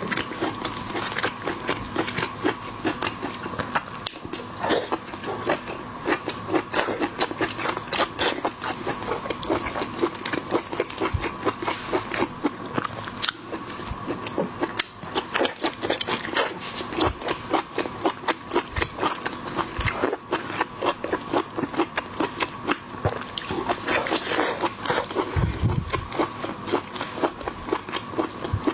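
Close-up chewing and biting of seafood: a dense, irregular run of clicks, smacks and crunches, over a faint steady tone.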